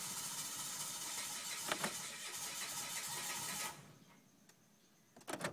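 2013 Mitsubishi Mirage's engine being cranked by the starter motor without catching, a failure to start; the cranking stops abruptly a little under four seconds in. A couple of sharp clicks follow near the end.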